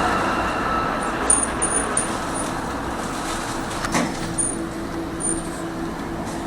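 A tram running along its line, a steady rumble with a faint held hum. Short high-pitched squeaks come in two brief clusters, about a second in and again past the middle, with a single sharp knock about four seconds in.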